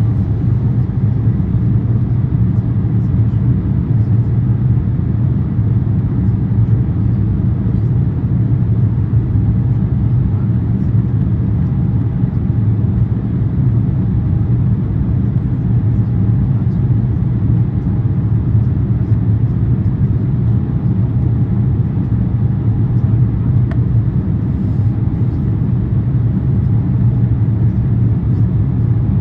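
Steady cabin noise inside an Airbus A350-900 climbing after takeoff: a constant low rumble from its Rolls-Royce Trent XWB engines and the rushing air, with a faint higher hum that comes and goes.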